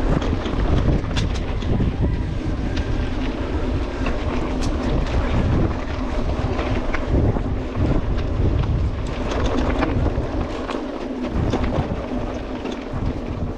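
Wind buffeting the microphone of a GoPro action camera during a mountain bike ride, a gusting low rumble with scattered sharp clicks and knocks from the bike rattling over the ground.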